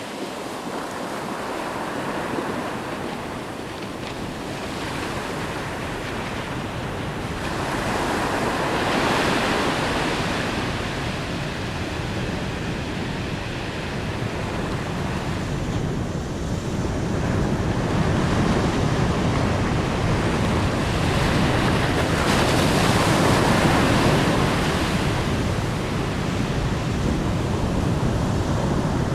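Ocean waves washing in, a steady rush that swells twice, about a third of the way in and again past two-thirds.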